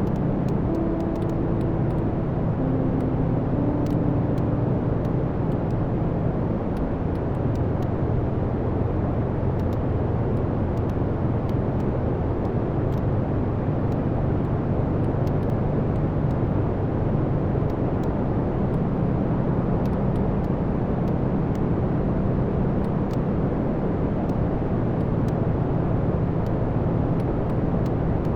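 Wood fire burning in a fireplace: a steady low roar of the flames with small crackles and pops from the burning logs scattered throughout.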